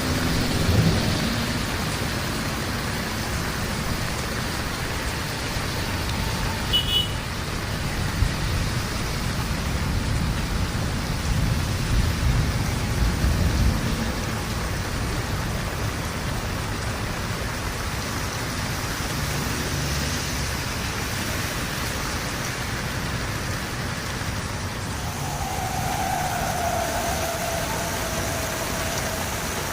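Heavy rain falling steadily, with a low rumble swelling about twelve seconds in and dying away a couple of seconds later.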